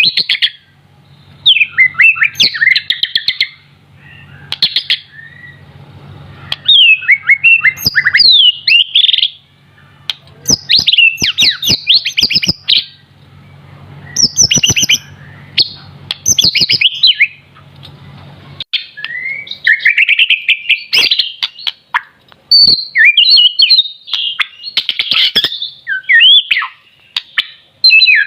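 Young white-rumped shama singing in bursts of rapid, varied whistled phrases with short pauses between them, and sharp clicks scattered through the song. The bird is still in juvenile plumage but already sings full song. A faint low hum stops about two-thirds of the way through.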